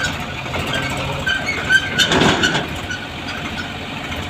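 Diesel engine of heavy machinery running steadily, with a louder burst of noise about two seconds in.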